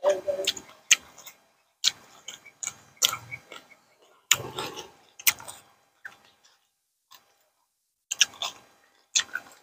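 People chewing a mouthful of papaya salad with rice noodles: irregular wet clicks and crunches of eating, going quiet for about a second and a half a little after the middle.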